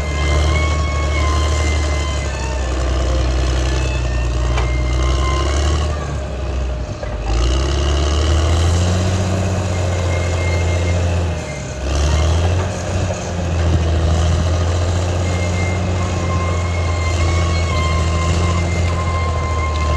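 Caterpillar D6R XL bulldozer's diesel engine running under load, its pitch dipping and recovering briefly about a third of the way in and again just past halfway. A thin high whine comes and goes over it.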